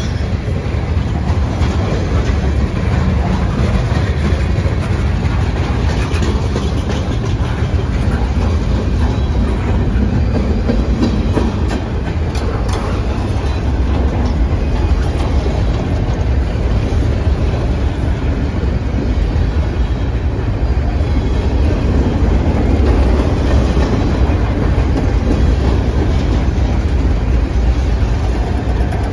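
Freight train cars rolling past close by: a steady, loud rumble of steel wheels on the rails, with a few sharp clicks about halfway through.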